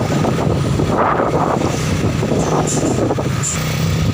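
Truck engine running steadily at a loud level, a constant low drone with rumbling noise over it.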